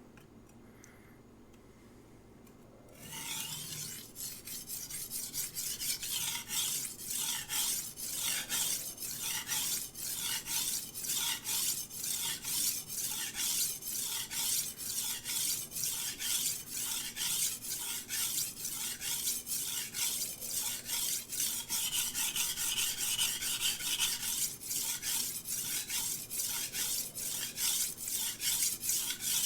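A VG10 steel knife blade being sharpened on a wet King 300-grit whetstone. The strokes start about three seconds in and go on steadily, about two rasping passes a second.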